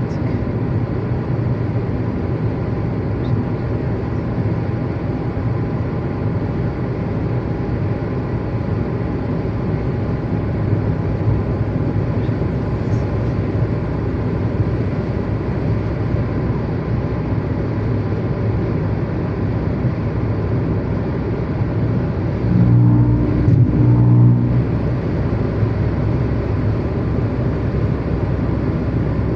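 Steady low rumble of a running vehicle, with a brief louder low hum about three quarters of the way through.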